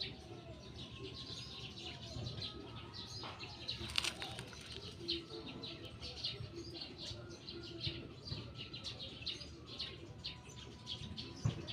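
Birds chirping, a steady run of many short high chirps, with a faint low background hum.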